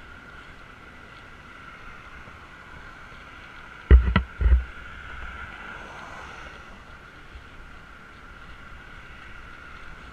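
Wind rushing over the microphone of a camera riding along on a moving bicycle, with steady noise underneath. About four seconds in come two loud knocks with heavy thumps, half a second apart.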